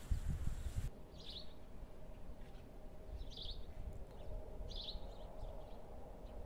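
A small bird chirping: short, high single chirps about every second and a half to two seconds, over quiet outdoor background. A low rumble fills the first second and then stops.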